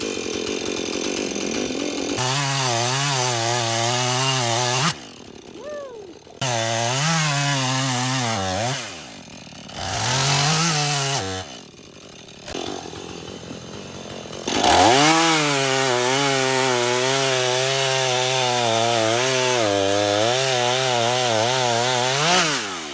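Chainsaw revving and cutting through wood in four runs, the last about eight seconds long, its pitch wavering under load and dropping back toward idle between cuts.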